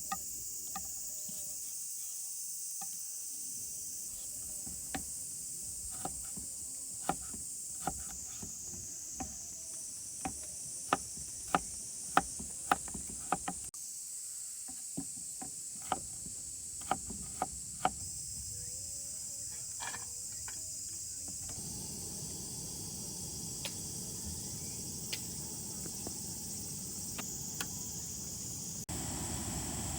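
Steady insect chirring, with a run of sharp taps or clicks, densest about halfway through at roughly two a second. A low rushing noise joins about twenty seconds in.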